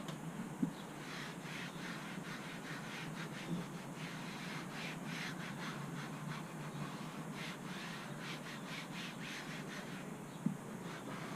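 Quick, repeated rubbing strokes of an applicator pad wiping a trim coating onto the plastic wiper cowl, over a steady low hum, with a couple of light knocks.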